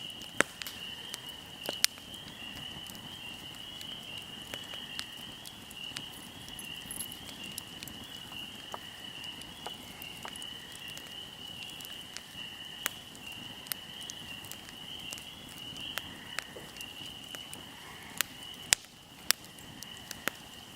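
A fire burning and crackling, with sharp pops at irregular intervals; the loudest pops come near the start and near the end. Crickets chirp in a steady high trill behind it.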